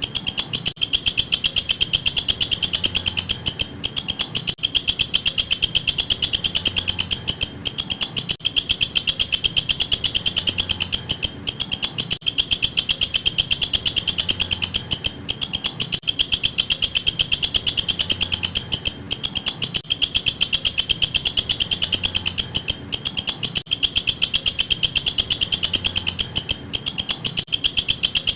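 Walang kecek, a singing bush cricket (katydid), stridulating in a continuous fast pulsing chirr, high-pitched, with short breaks every few seconds.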